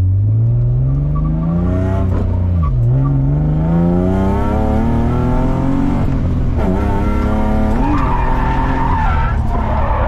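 BMW E36's M52B28 2.8-litre inline-six heard from inside the cabin, pulling hard through the gears: the revs climb, drop at a shift about three seconds in, climb again, then dip and rise sharply around six to eight seconds. Near the end a tire squeal joins the engine as the rear tires break traction.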